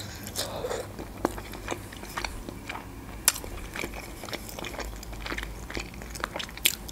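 Close-miked eating of khinkali, boiled Georgian dumplings: biting into the soft dough and chewing, with wet mouth smacks and clicks. A few sharper clicks stand out, about three seconds in and near the end.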